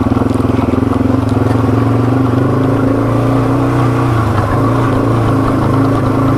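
Yamaha TW200's air-cooled single-cylinder four-stroke engine running steadily under way, easing off slightly about four seconds in.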